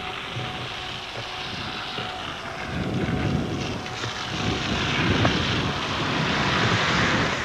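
Aircraft engine noise from a plane passing over, a steady rushing sound that grows louder from about three seconds in and is loudest near the end.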